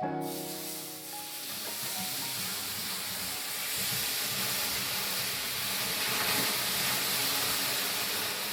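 A steady hiss with no tones in it, holding level for several seconds.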